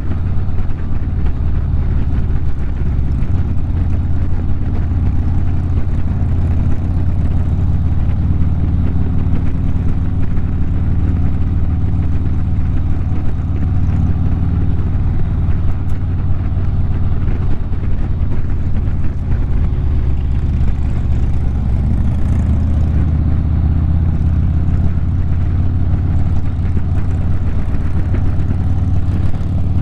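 Harley-Davidson motorcycle's V-twin engine running steadily while the bike is ridden at an even speed, a continuous low engine drone with no revving up or down.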